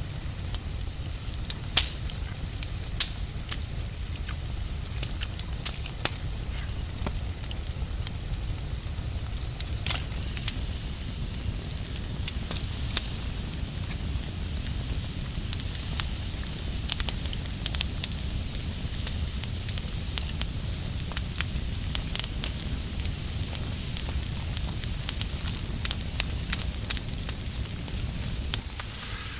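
Wood campfire crackling, with irregular sharp pops scattered over a steady low rumble.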